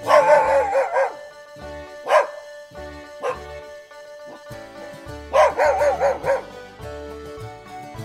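A dog barking: a quick run of barks at the start, single barks about two and three seconds in, and another quick run around five to six seconds, over background music.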